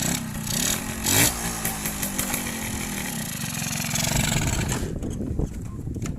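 Yamaha F1Z R two-stroke single-cylinder motorcycle engine running, with its revs swinging up and down in the first second or so, then running fairly steadily.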